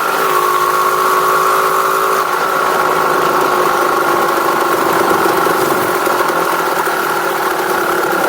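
Engine with a stock exhaust running at a steady idle, its pitch easing slowly downward.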